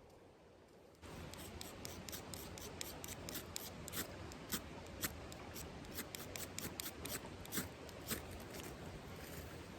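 Campfire crackling: irregular sharp pops and snaps over a steady hiss, starting suddenly about a second in.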